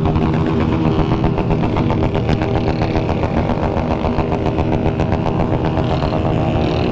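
Motorcycle engines running loudly, with a rapid exhaust pulse throughout.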